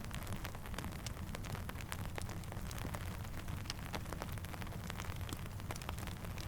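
Steady rainfall: an even hiss with a low rumble underneath and many sharp, irregular ticks of drops, mixed with faint campfire crackle.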